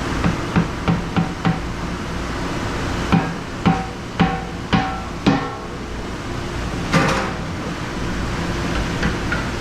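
Kitchenware knocking: five quick knocks, then five slower ringing knocks about half a second apart, and a louder clatter near the end. A steady low machine hum runs underneath.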